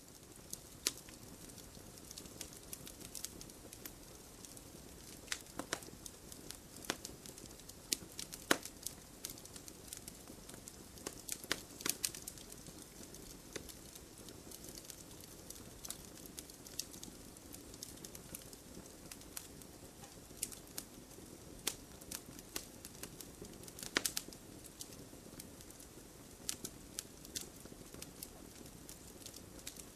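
Wood fire in a fireplace crackling: a soft steady hiss under many irregular sharp pops and crackles, a few of them louder than the rest.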